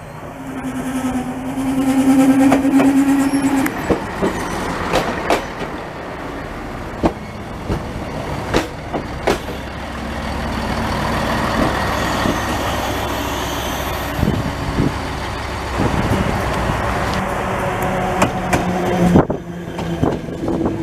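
Siemens Desiro diesel railcar running into and past the platform. A steady tone sounds for about three seconds at the start, then the wheels give a few sharp clicks over the rail joints, and the running noise swells and fades as the train goes by. Near the end the sound breaks off and another train's running noise follows.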